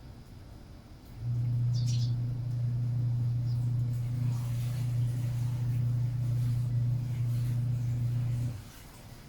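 A steady low hum comes in about a second in and stops abruptly about a second before the end. A short sparrow chirp sounds about two seconds in.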